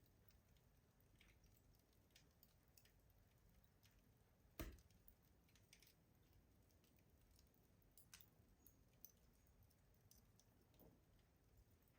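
Faint crackling of a wood fire burning in a rustic stove: scattered small clicks and snaps, with one louder pop about four and a half seconds in.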